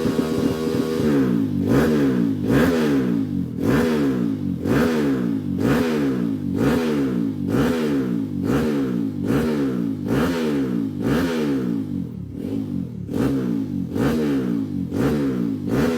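Kawasaki KLX motorcycle's single-cylinder four-stroke engine, bored up to 63 mm, being revved over and over. Its pitch climbs and drops back about once a second, after a short idle at the start.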